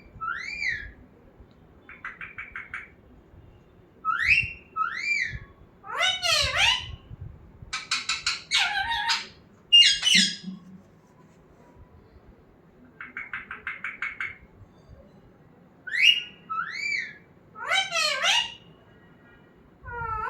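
Pet parrot calling in bouts: pairs of arched, rising-and-falling whistled calls, fast rattling trills and shrill squawks. The pattern repeats with a few seconds' pause in the middle.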